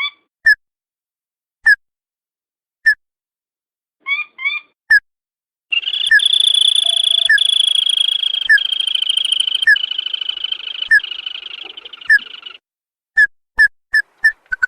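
Recorded lure call of a crake (tikusan / sintar padi): sharp single call notes at spaced intervals, some in rising pairs. For about six seconds in the middle a continuous rattling trill runs beneath the notes, then the notes come quicker near the end.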